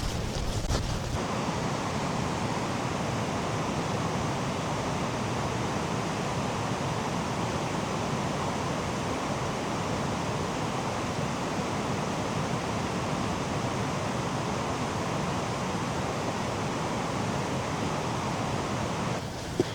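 Waterfall rushing in a steady, even roar of falling water. It begins abruptly about a second in and cuts off just before the end.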